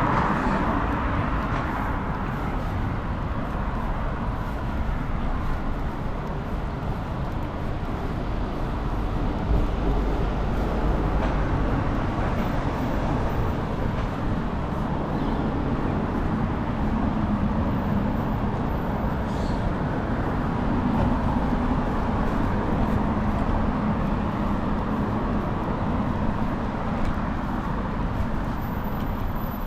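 City street ambience: steady road traffic noise with a low rumble underneath.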